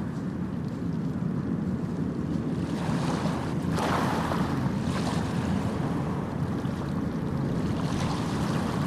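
Sea waves washing onto a shore, a steady rush of surf with a stronger wave breaking a few seconds in.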